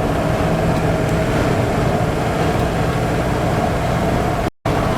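Cab interior of a 1971 Chevy truck cruising on the highway: the 402 big-block V8 drones steadily under road noise. The sound cuts out completely for a moment near the end.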